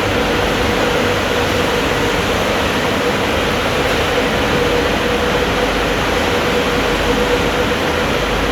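Kleindienst EUROWS automatic car wash running: a loud, steady rush of machine noise with a constant hum that does not change.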